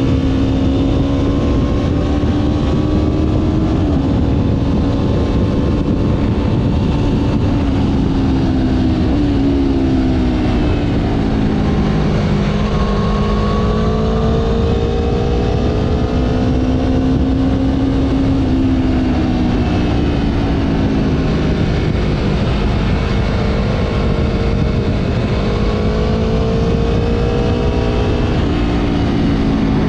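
Motorcycle engine running under way, its pitch climbing and falling with the throttle and stepping at gear changes, over a heavy low rumble of wind on the camera microphone.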